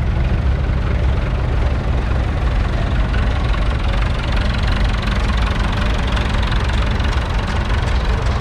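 1975 Massey Ferguson 185's 4.1-litre four-cylinder diesel engine running at a steady speed.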